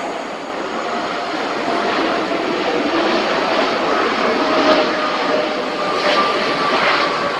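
Jet airliner engines running loud: a steady rush with a faint whine that drifts slowly lower in pitch.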